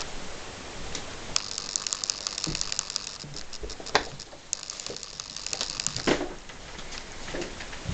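Insects chirping in rapid high-pitched pulses, about seven a second, merging into a steady trill for stretches. A few sharp clicks and knocks cut in, the loudest about four seconds in and another around six seconds.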